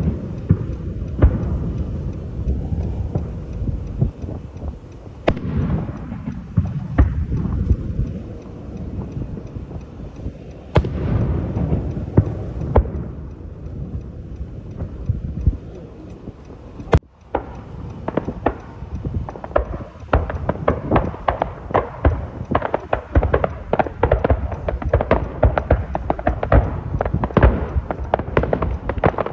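Fireworks display: deep booms of aerial shells bursting, each with a long rumbling tail. About two-thirds of the way through, a dense run of rapid crackling pops takes over.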